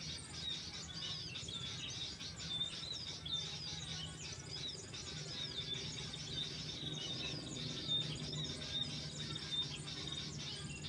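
Many small songbirds chirping and calling in quick, overlapping phrases, over a steady high insect-like whine and a low steady hum.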